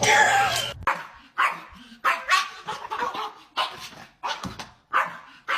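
A dog barking repeatedly in short, separate barks, about two a second.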